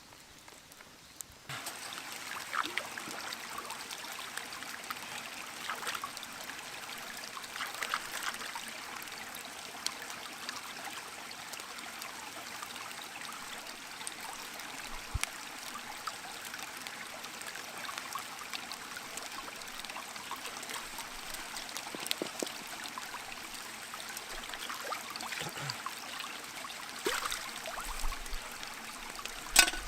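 Water trickling steadily, with scattered small ticks and drips through it. It begins abruptly about a second and a half in, and there is a sharper click near the end.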